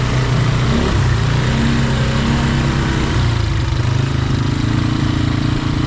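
Off-road vehicle engine running steadily at low, even throttle, its note shifting slightly a couple of times.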